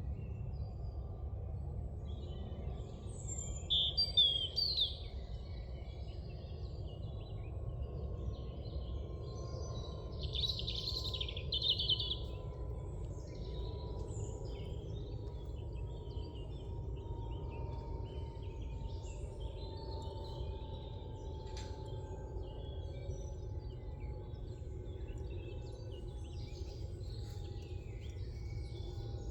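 Woodland birds singing and calling, several overlapping, with louder songs about four seconds in and again from about ten to twelve seconds in, over a steady low background rumble.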